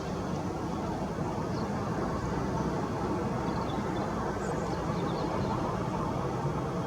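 Steady low rumble of outdoor background noise, like distant traffic, with a few faint, brief chirps of small birds above it.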